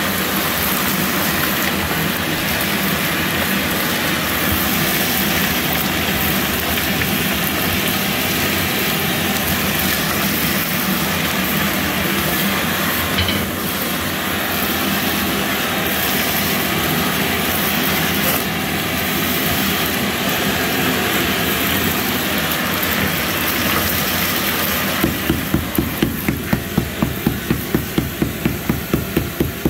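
A motorized tool runs steadily while old thinset is cleared out of a floor-tile opening. Near the end it is joined by a quick series of sharp strikes, about four a second.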